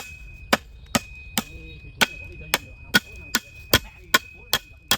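A hand tool striking wood or bamboo again and again: about a dozen sharp blows at an even pace of roughly two and a half a second.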